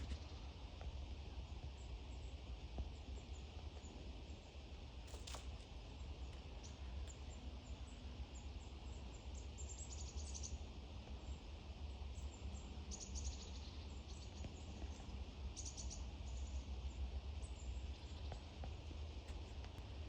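Outdoor ambience with a steady low rumble and a few short, rapid series of high-pitched chirps from small birds, heard about ten, thirteen and sixteen seconds in. A single click sounds about five seconds in.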